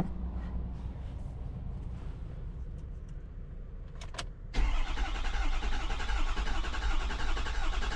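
A 6.7 L Power Stroke diesel being cranked by its starter. The steady, rhythmic cranking starts suddenly about halfway through, after a couple of clicks, and the engine does not fire: the low-pressure fuel side still reads zero.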